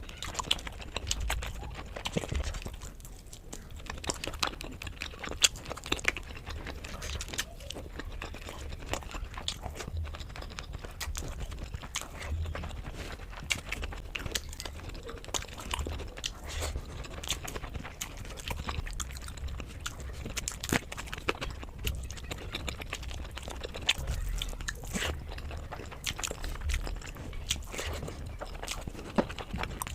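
Close-miked chewing and mouth sounds of a person eating spicy fish curry, with many small irregular clicks and smacks throughout.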